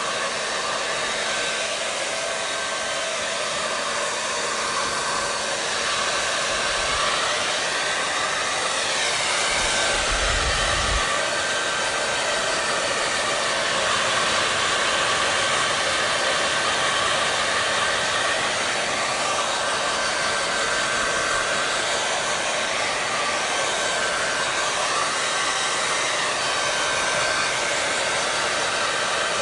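Hair dryer running continuously: a steady rush of blown air with a faint motor whine whose pitch wavers gently now and then.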